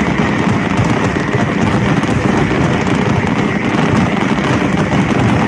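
Continuous loud rumbling din of a fireworks display, with no single bang standing out.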